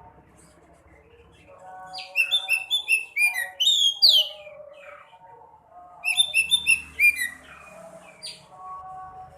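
Small songbird singing in two bouts of rapid, loud chirps, about two seconds in and again about six seconds in, over fainter steady lower warbling.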